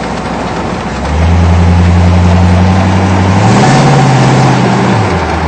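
C3 Corvette's V8 engine pulling under acceleration: a loud steady drone that starts about a second in, steps up in pitch about halfway, then falls away near the end.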